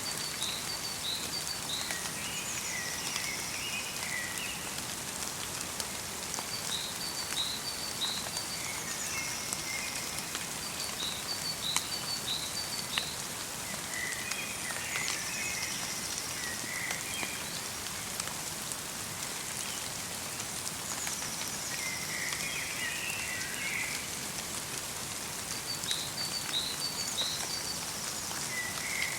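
Light rain falling steadily through a forest, with scattered drops ticking, while small birds call in short runs of high notes that come back every few seconds.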